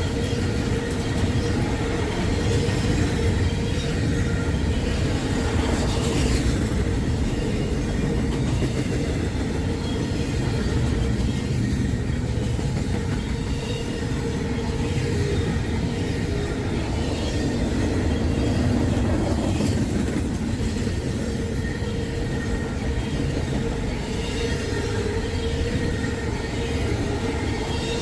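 Freight train of highway trailers on flatcars rolling steadily past the crossing: a continuous rumble and clatter of steel wheels on rail, with a thin steady high tone running over it.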